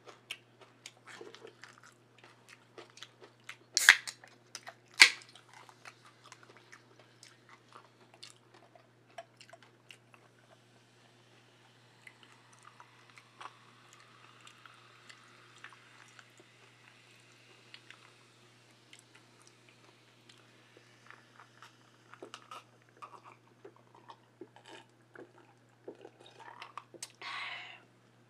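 Close-up eating sounds: chewing, lip smacking and crunching, with two loud sharp clicks about four and five seconds in. In the middle, soda is poured from a can into a glass with a soft fizzing hiss.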